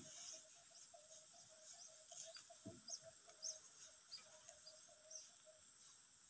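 Faint background with a few short high bird chirps and a faint rapid pulsing call over a steady high hiss.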